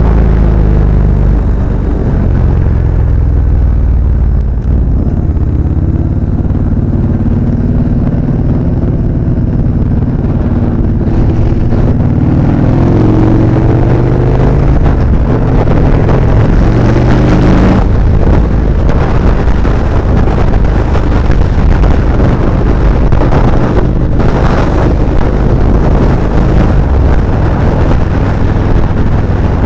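Motorcycle engine running under way with heavy wind rumble on the microphone; around the middle the engine pitch climbs steadily as it accelerates, then drops back.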